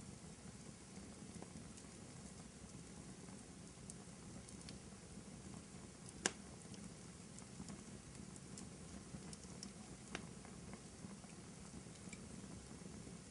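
Fireplace fire crackling softly over a low steady rumble, with scattered small ticks and a sharp pop about six seconds in and another near ten seconds.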